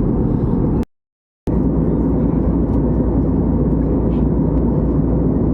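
Steady jet airliner cabin noise in flight: a dense low rumble of engines and rushing air. It drops to dead silence for about half a second, about a second in, then comes straight back.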